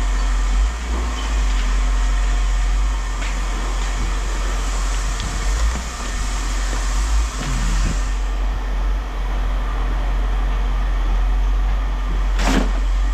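A steady low mechanical rumble with a hiss over it, and one short sharp sound near the end.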